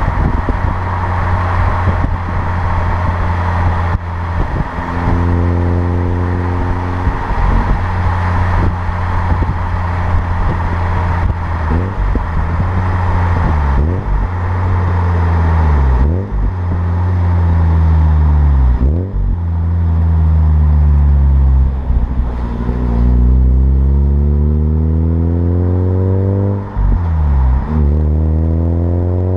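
Mazda RX-8's street-ported twin-rotor Renesis rotary engine running through a Japspeed cat-back exhaust. It holds a steady pitch at first, then in the second half is revved several times, the pitch climbing over a few seconds and falling quickly back.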